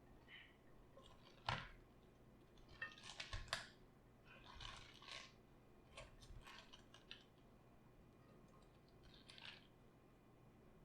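Quiet kitchen handling sounds from food preparation: a sharp click about a second and a half in, then several short spells of crisp crackling and scraping.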